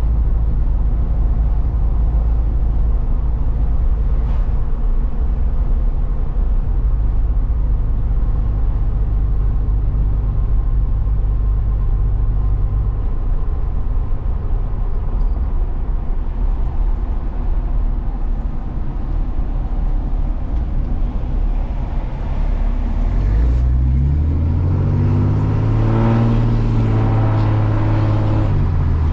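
Truck engine and road noise drone steadily inside the cab. About three-quarters of the way through, the engine note climbs as the truck accelerates, holds for a few seconds, then drops again near the end.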